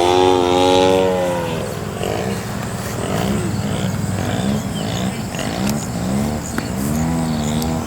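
Model airplane engines in flight: one passes with its pitch falling, then the drone keeps rising and falling in pitch as the planes turn overhead.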